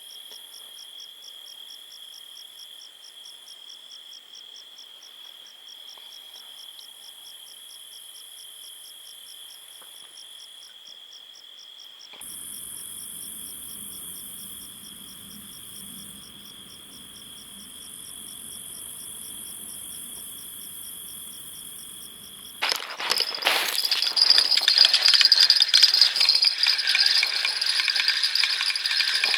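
Crickets chirping: a steady high trill with a fast, evenly pulsing trill above it. About 23 s in, a sudden loud rattling, jingling clatter starts and drowns them out.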